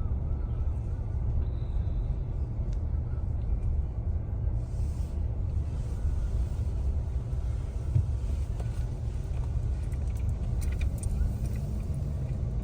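Steady low rumble of a car being driven, engine and road noise as heard inside the cabin.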